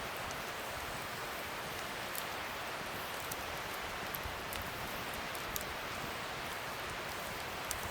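Wood fire burning with a steady hiss and scattered small crackles and pops.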